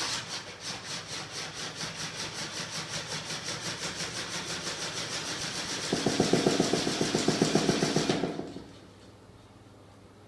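Small prototype magnet engine running with a rapid rhythmic pulse, about five beats a second. About six seconds in, a louder, lower hum joins, and the sound cuts off about two and a half seconds later.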